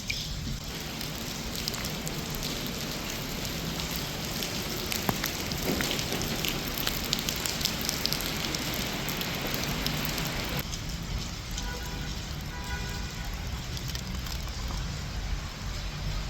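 Heavy rain falling, a dense hiss full of close drop hits. About ten seconds in it turns quieter and duller.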